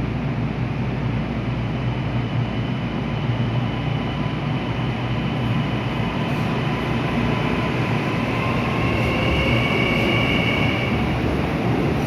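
Kintetsu 80000 series Hinotori limited-express electric train running, a steady rumble with a faint high whine that grows stronger for a couple of seconds near the end.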